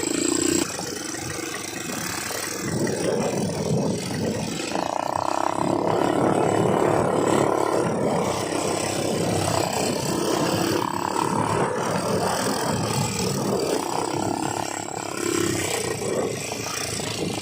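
ATV engine running under way, its note shifting with the throttle and stepping up about five seconds in, over a steady rushing noise.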